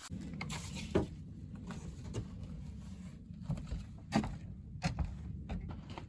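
A low, steady mechanical rumble with scattered knocks and clunks, the sharpest about a second in and about four seconds in.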